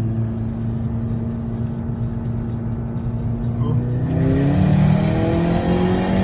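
Turbocharged 2.0 TSI four-cylinder of a Stage 2 VW Beetle, breathing through a homemade 76 mm valved exhaust with a decat downpipe. It runs at a steady pitch, then about four seconds in it gets louder and the revs climb in steps.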